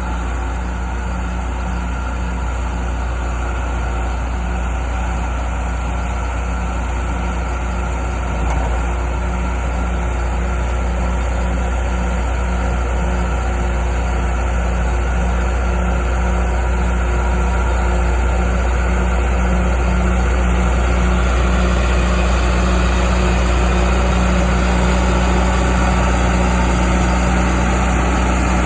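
Diesel engine of a John Deere 450G crawler dozer running steadily, with a deep hum and a regular low pulse about twice a second; it grows a little louder in the last third.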